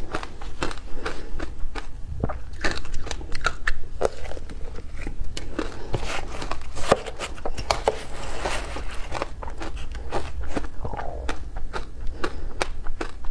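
Frozen matcha ice being bitten and crunched between the teeth: a dense, irregular run of sharp cracks and crunches.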